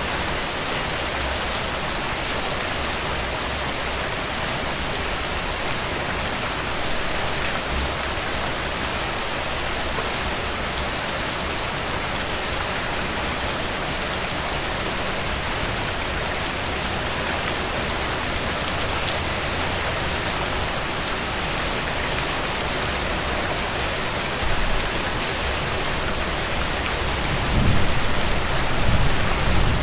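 Steady rain pattering on a tent, with many small sharp drop ticks over a dense hiss. A low rumble swells in near the end.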